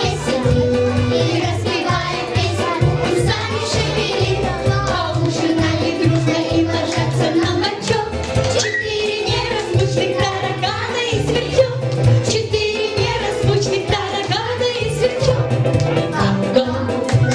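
Children's vocal ensemble singing a song with instrumental accompaniment and a steady bass beat.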